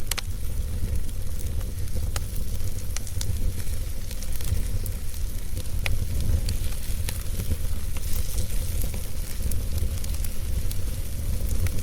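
Wood fire burning, with scattered crackles and sharp pops over a steady low rumble. A louder pop comes about six seconds in.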